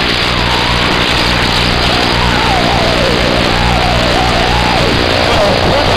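Distorted music coming over a CB radio channel, a wavering melody buried in loud static hiss and hum.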